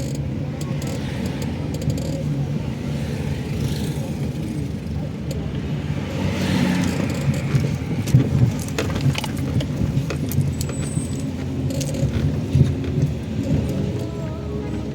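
A car running with a steady low rumble, with metallic jingling and clicking like keys rattling over it.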